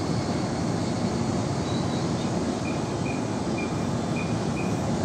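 E655 series 'Nagomi' electric train running past on the rails, a steady rush of wheel and running noise. Faint short high beeps come about twice a second through the second half.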